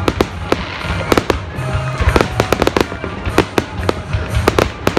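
Aerial fireworks shells bursting in a rapid string of sharp bangs, well over a dozen, bunched most densely around the middle.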